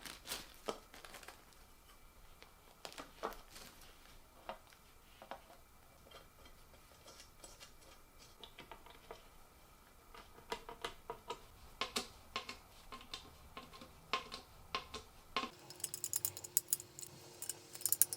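Scattered light clicks and knocks of ceiling fan parts being handled, with a quick run of small ticks near the end.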